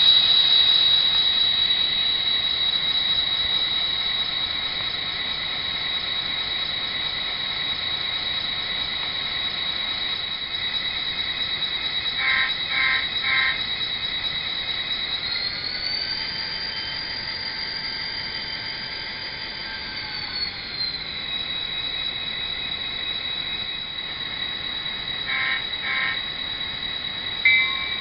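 Model locomotive sound decoder playing a turbocharged diesel locomotive engine through a small speaker: a steady high whine over the engine sound. About halfway through the whine rises in pitch, holds for several seconds, then settles back, and there are two short runs of brief tonal blips.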